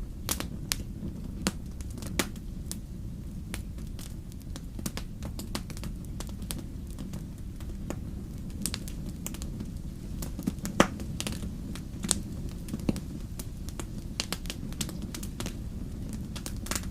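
Wood fire crackling in a fireplace: irregular sharp pops and snaps over a steady low rumble, with one louder pop a little before the middle.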